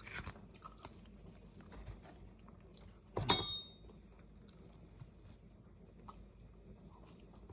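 Faint mouth sounds of a person eating and drinking from a young coconut: soft chewing and small clicks, with one brief, much louder mouth sound about three seconds in.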